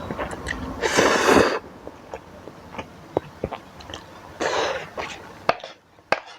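Someone eating spicy instant noodles up close, with a loud burst of noise at the mouth about a second in and a shorter one near the end. A few sharp clicks of a metal fork and spoon follow.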